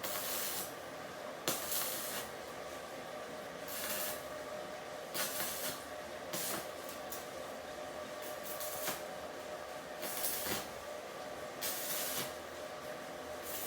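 Compressed-air spray gun hissing in about nine short bursts, a second or two apart, over a steady background hum.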